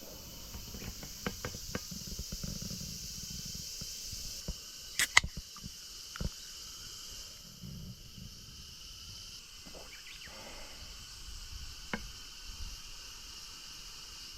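A steady high hiss of outdoor background, with scattered sharp clicks and knocks of things being handled on a camp table. The loudest is a quick double click about five seconds in, and there are single knocks about a second later and near the end.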